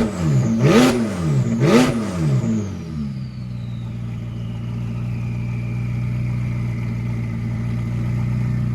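McLaren 570S twin-turbo V8 revved in about three quick throttle blips, each ending in a sharp crack from the exhaust. It then settles to a steady idle while a thin high whistle falls slowly in pitch.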